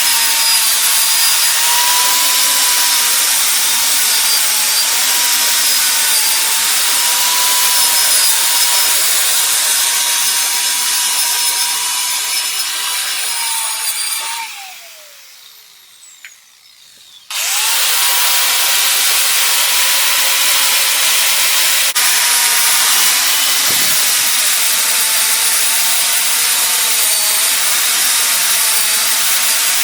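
Angle grinder running on a steel motorcycle frame, its whine wavering as it is pressed into the work. About halfway through it is switched off and winds down with a falling pitch, then it starts again about three seconds later and runs on.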